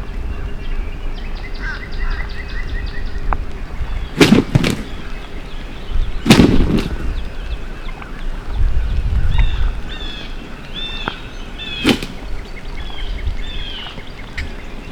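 Songbirds chirping over a low outdoor hiss. Two loud rattling bursts come about four and six seconds in, and a single sharp crack near twelve seconds.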